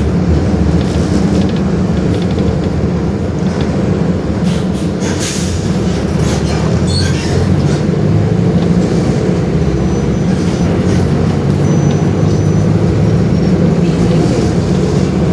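Mercedes-Benz OF-1721 BlueTec 5 bus's diesel engine running with a steady low drone, with a few brief rattles a few seconds in and a faint high whine that comes and goes in the second half.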